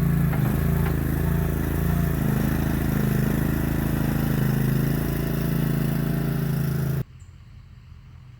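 Boxer 320 mini skid steer engine running steadily, with some light clatter. It cuts off suddenly about seven seconds in, leaving a quiet outdoor background.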